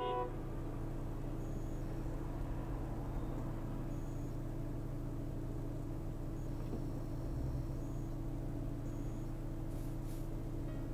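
Steady low engine and road hum of a car as picked up by a dash cam, with a short beep right at the start.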